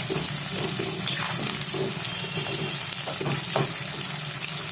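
Sliced onions sizzling steadily as they fry in hot oil in a kadhai, cooking until they turn reddish-brown.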